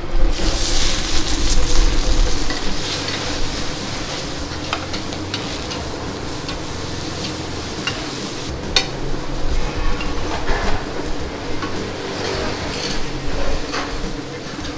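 Oysters and egg batter frying in hot oil on a wide black pan over a high gas flame: loud sizzling that flares up right at the start, with a metal spatula scraping and clicking against the pan.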